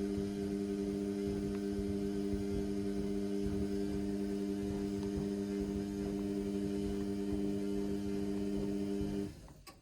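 Indesit washing machine humming steadily with a low rumble beneath, cutting off suddenly near the end, followed by a short click.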